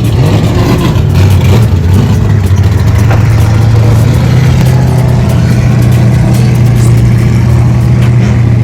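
Car engine running loudly at a steady pitch, without revving up or down.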